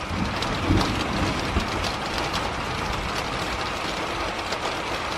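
Heavy rain falling steadily, with a low rumble of thunder swelling in over the first second or two.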